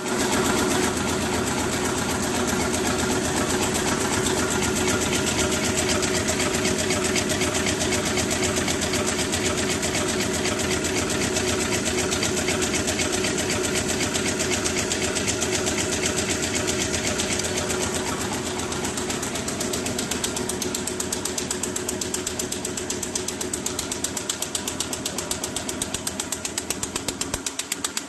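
RZJD-G350J automatic flat bottom paper bag machine running at production speed, a rapid, even mechanical clatter over a steady hum. It gets slightly quieter in the last third.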